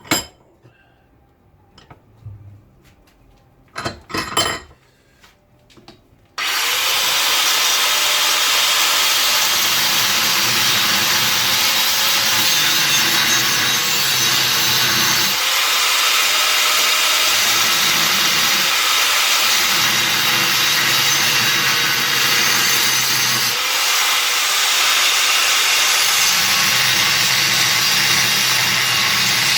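A few metal clinks, then about six seconds in a power cutting tool starts abruptly and cuts steadily into sheet steel body panel, the cut for a V notch so the piece will bend. The lower part of the sound drops out and comes back several times as the cut loads and eases.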